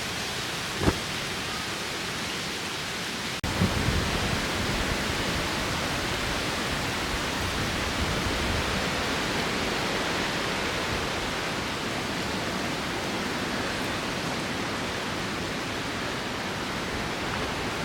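Strong wind rushing steadily, with a single click just under a second in. About three and a half seconds in it changes abruptly to louder rushing with low rumbling gusts on the microphone.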